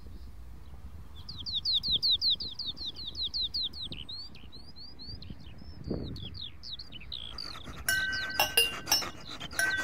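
A bird singing a fast run of repeated down-slurred high notes, about five a second, then scattered single notes. About eight seconds in, tinkling chimes start, struck again and again with ringing tones.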